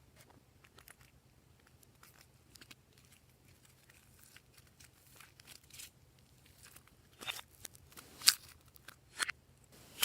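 Glossy slime being worked by hand, with scattered sticky clicks and crackling pops. They are faint at first and grow louder and sharper over the last few seconds.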